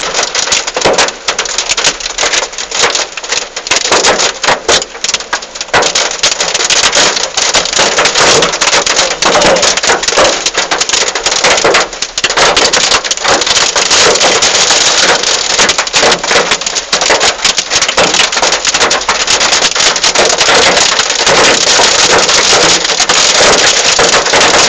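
Heavy rain falling: a loud, dense hiss with many close drop hits, growing steadier in the second half.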